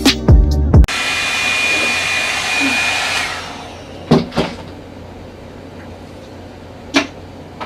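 Music for about the first second, then a Revlon One-Step hair dryer brush blowing steadily with a high whine. It switches off about three seconds in and its motor winds down. A few short knocks of handling follow.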